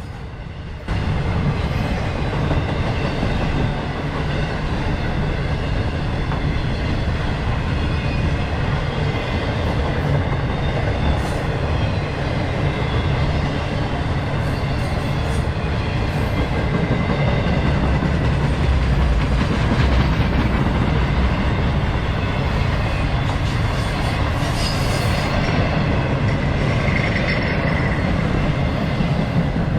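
Freight train cars of a CSX intermodal train rolling past close by: a steady heavy rumble of wheels on rail with clickety-clack over the joints, getting louder about a second in.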